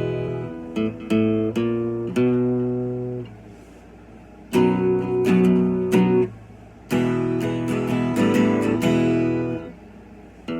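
Solo acoustic guitar playing an instrumental break between sung verses: chords and picked notes struck in phrases and left to ring and fade, with short quiet pauses between phrases.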